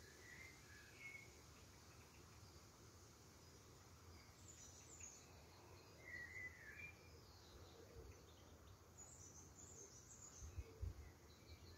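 Faint, distant birdsong: a few short chirping phrases over a quiet outdoor hush, with a few low thumps near the end.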